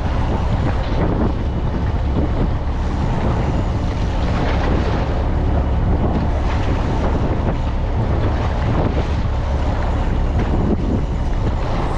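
Fishing boat's engine running steadily, a low hum under heavy wind noise on the microphone.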